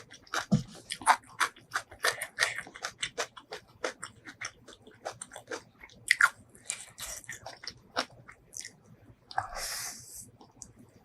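Close-miked eating: a person chewing and biting food with rapid, irregular wet clicks and crunches. There is a short hissing burst about nine and a half seconds in.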